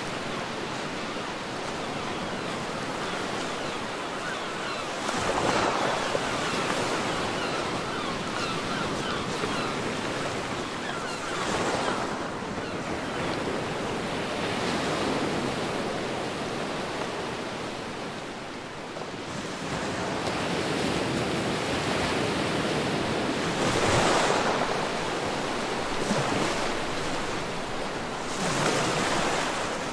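Ocean surf washing steadily on a beach, with four louder breaking waves at uneven intervals.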